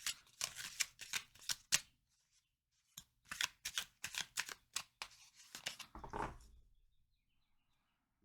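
Tarot cards being shuffled by hand: two runs of quick papery flicks with a pause of about a second between them, the second run fading out near the end.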